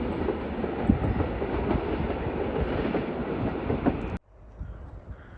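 Two coupled EN57AL electric multiple units rolling out of the station, a dense rumble of wheels with scattered clacks over the rail joints. It cuts off suddenly about four seconds in, leaving faint outdoor ambience.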